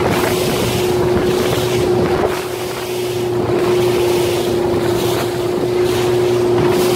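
Strong wind buffeting the microphone and water rushing past a Nacra 17 racing catamaran sailing fast downwind, with a steady unbroken hum held underneath.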